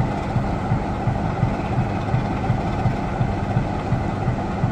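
Heritage British Rail diesel locomotive engine idling with a steady low hum and a regular beat, the loco standing ready to depart.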